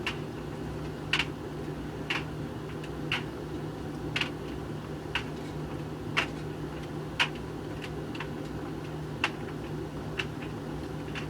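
Hoover VHV680C tumble dryer running with a steady hum, with a light click about once a second.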